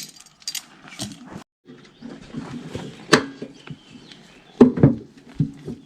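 Scattered clinks and knocks of hand tools working on a tractor's front power-takeoff housing, while a nut is being taken off. There is a sharp knock about three seconds in and a cluster of knocks near the end.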